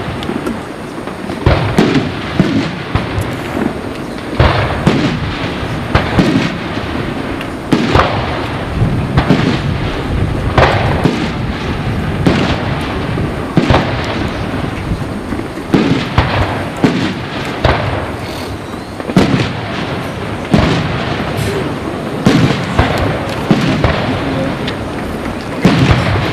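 Fireworks display: aerial shells bursting one after another, with a sharp bang every second or two over a steady crackle.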